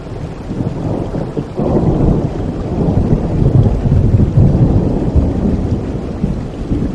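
Thunder rumbling over steady rain: a low rumble swells suddenly about a second and a half in, stays loud for several seconds and eases near the end.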